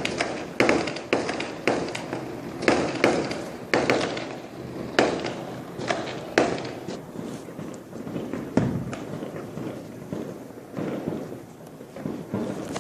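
Fireworks exploding far off, heard from indoors through a closed window: a rapid, irregular string of bangs, each with a short echoing tail. The bangs come several a second at first and thin out after about seven seconds.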